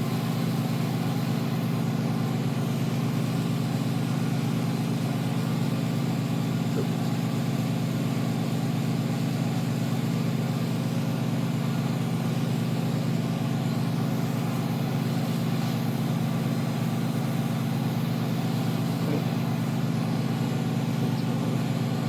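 Steady, unchanging low machine hum from running shop equipment, with no strokes or changes.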